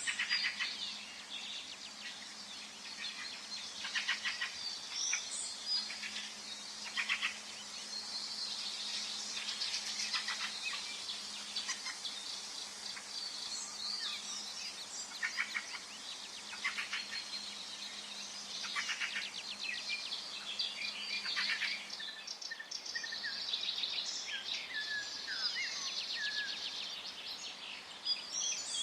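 Several songbirds chirping and trilling over a faint steady background hiss: a forest dawn-chorus-like ambience. Calls come in short rapid runs every second or two, some as fast clicking trills.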